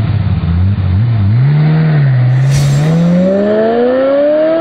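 Car engine running, then revving up, its pitch climbing steadily through the second half. There is a brief hiss about two and a half seconds in.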